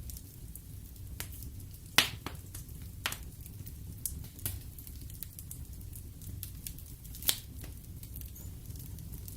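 Wood fire in a fireplace crackling: a low steady rumble of flames with scattered sharp pops, two loud cracks about two seconds in and again near the end.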